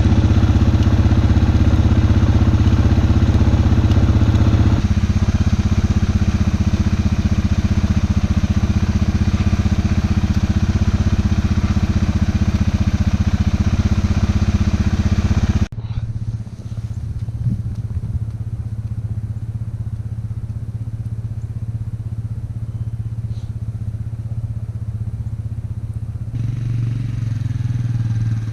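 A 2006 Suzuki Vinson 500 4x4 ATV engine running steadily. The sound changes abruptly about five seconds in and drops suddenly quieter around sixteen seconds.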